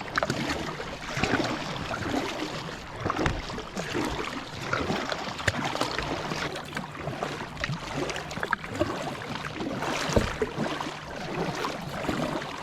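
Water splashing and trickling around a kayak, with frequent small irregular splashes and knocks over a steady wash of water noise.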